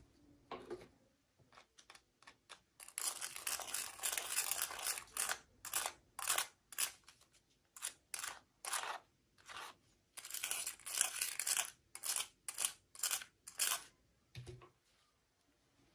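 Packaging being torn open and crinkled by hand: a run of short, sharp rustling and tearing strokes, with longer continuous tearing a few seconds in and again about ten seconds in, and a soft thump near the end.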